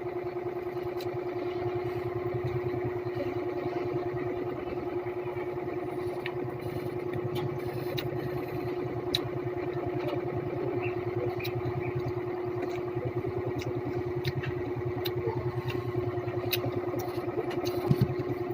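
A motor running steadily with an even hum, and scattered light clicks and taps over it.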